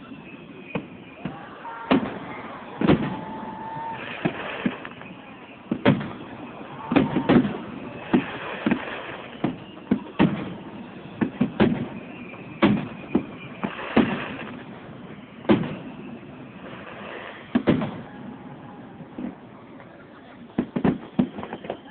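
Fireworks display: aerial shells bursting one after another, sharp bangs at irregular intervals with echoes trailing after them.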